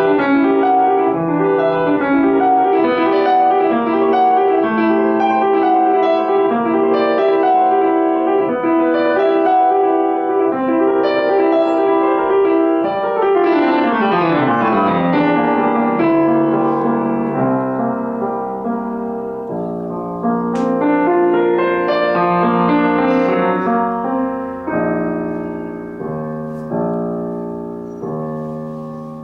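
Solo piano playing a classical piece: fast running notes, a quick downward run about halfway through, then slower, separate chords that ring and fade.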